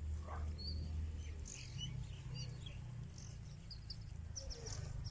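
Birds chirping: short, scattered high chirps over a steady low rumble, with a thin high steady whine running underneath.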